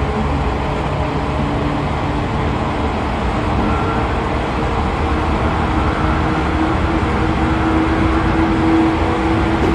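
Running noise inside a 113 series electric train's motor car: heavy wheel and rail rumble with the hum of its MT54 DC traction motors and gears. One tone in the hum rises slightly in pitch and grows louder over the second half.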